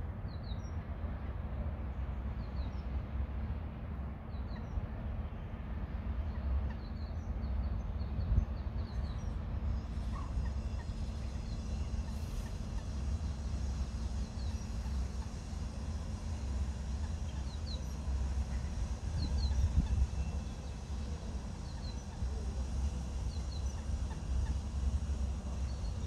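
Faint, high chirps of small birds, short and often paired, repeating every second or two over a steady low rumble.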